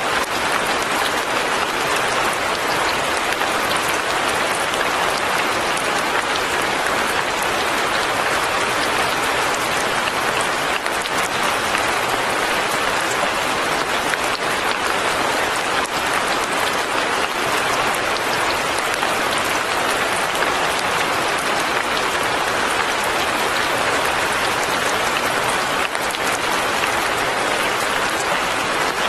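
Light rain falling steadily as a dense, even patter, with no change in strength.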